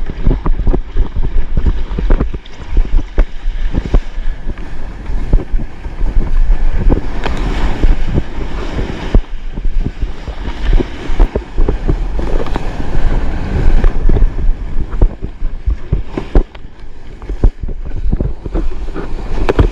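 Wind rumbling on a GoPro's microphone, with ocean water splashing and slapping against a stand-up paddleboard in big surf and many short sharp splashes throughout.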